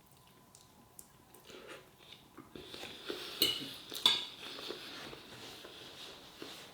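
Cutlery clinking and scraping against a dish while food is eaten: a few scattered sharp clinks, the loudest two about three and a half and four seconds in.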